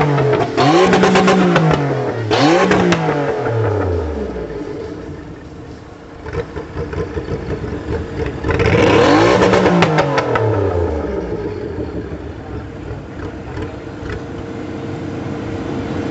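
A vehicle engine revs up and down two or three times in quick succession with sharp pops, settles to idle, revs once more about halfway through, then idles steadily.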